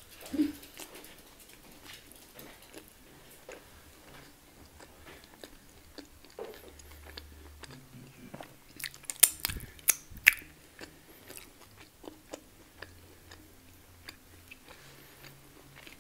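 A person chewing and eating a meal close to the microphone, with wet mouth sounds and small scattered clicks. A burst of louder, sharper clicks comes about nine to ten seconds in.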